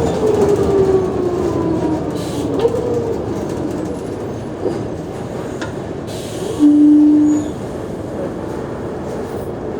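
Mercedes-Benz O345G articulated bus running, with a whine that falls steadily in pitch over the first three seconds as it slows. About seven seconds in, a loud steady buzzer sounds for just under a second.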